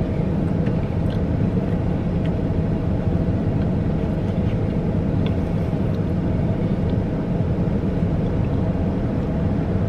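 A steady low rumble, like a vehicle engine running, with a few faint clicks over it.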